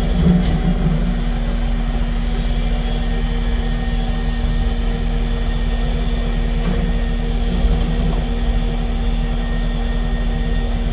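A heavy-equipment diesel engine runs steadily with an even hum, and a few dull clunks come through, about half a second in and again near seven seconds.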